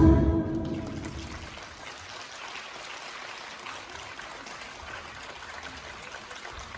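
The last music note dies away over the first second, then an audience applauds steadily.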